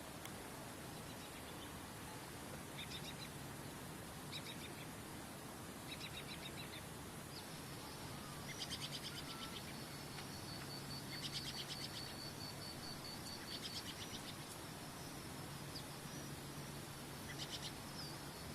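Songbirds chirping in short trilled bursts every second or two over a steady hiss of running water, with a high, steady insect-like trill joining about a third of the way in.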